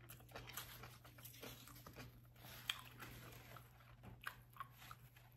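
Faint close-up chewing of a messy pulled-pork sandwich: soft wet mouth sounds with scattered smacks and a couple of sharper clicks, about halfway through and again later.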